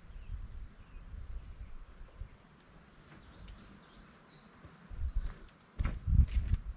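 Open-field ambience: small birds chirping faintly over an uneven low rumble. Near the end come a few sharp knocks and a louder rumble, which may be cattle moving close by.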